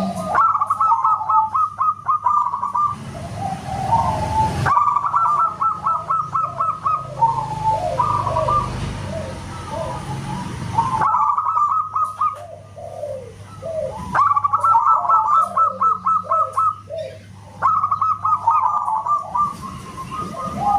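Zebra dove (perkutut) singing loud, whistle-like cooing: repeated phrases, each a fast run of high notes followed by a string of lower, falling notes, about five phrases in all.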